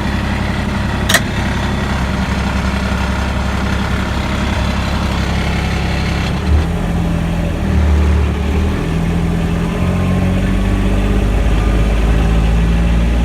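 Kubota tractor's diesel engine running steadily, its note shifting about halfway through as the load or throttle changes. A single sharp click about a second in.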